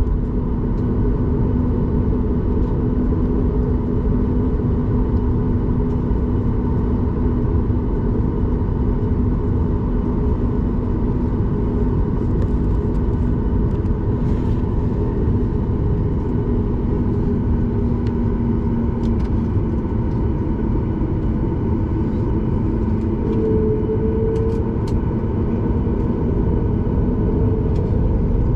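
Steady roar inside the cabin of a Boeing 737 MAX 8 in flight: its CFM LEAP-1B engines and the airflow over the fuselage, with a constant engine hum underneath.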